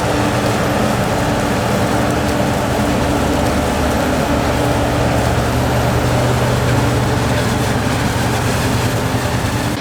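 Large diesel agricultural machinery running steadily under load, with a deep engine drone and a spread of mechanical noise.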